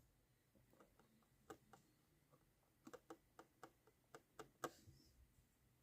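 Near silence with faint, light clicks and taps from small handwork, scattered about ten times and bunched in the middle: small handmade metal shingles being set in place on a model roof.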